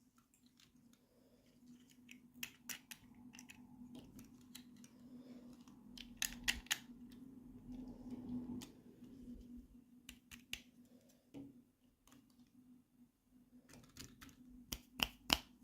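Small plastic toy parts and packaging being handled and unboxed: scattered sharp clicks and taps, bunched around six and a half seconds and again near the end, over a faint steady hum.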